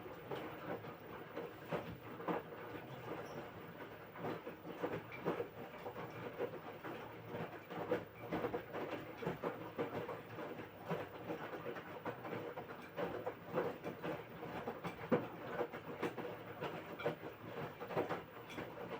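LG washing machine drum turning during the wash, a steady motor hum under irregular knocking and sloshing of the wet laundry and water; it stops abruptly near the end as the drum pauses between rotations.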